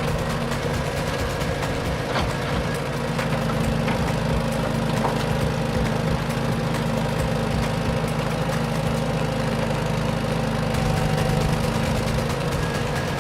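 Heavy vehicle engine running steadily at a constant low pitch, with a few faint clicks.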